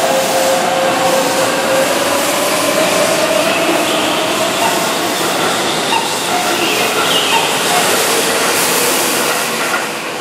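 Keihan electric commuter train running past along the platform, with a steady rush of wheel and rail noise and a motor whine that rises a little, then sinks. The noise drops away near the end as the last car clears.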